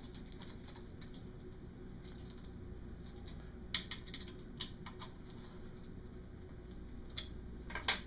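A few scattered light clicks and taps from hand work on a motorcycle muffler, with the loudest near the middle and two more close together at the end.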